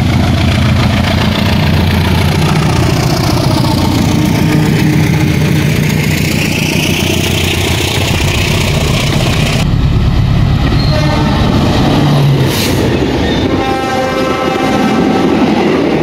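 Diesel locomotive engine running loud at full throttle as a train passes close by, with the railroad cars' wheels clattering over the rails.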